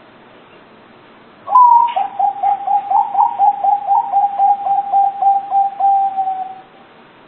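Zebra dove (perkutut) singing one song: an opening note about one and a half seconds in, then a fast, even run of short coos, about four a second, lasting some five seconds before it stops.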